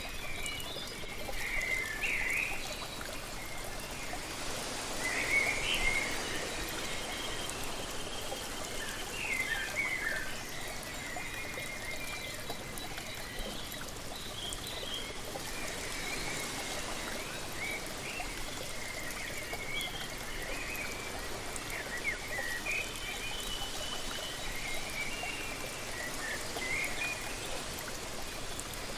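Waterfall water running in a steady rush, with small birds chirping and singing over it in short, repeated phrases. The hiss swells briefly a couple of times, around 5 and 16 seconds in.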